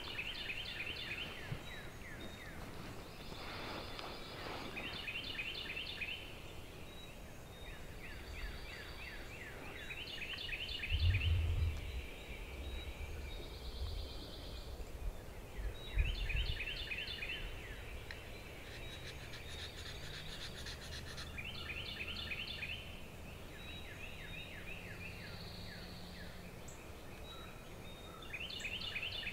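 Birds calling in the woods at dawn: a rapid rattling call about a second long, repeated every few seconds, with softer higher notes between. Two low thumps about 11 and 16 seconds in.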